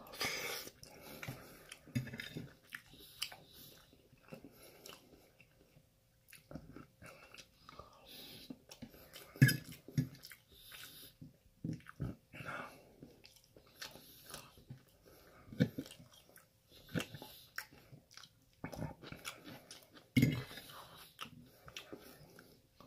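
Close-up chewing and mouth sounds of a person eating chicken stir fry, with irregular wet smacks and clicks as each forkful is bitten and chewed.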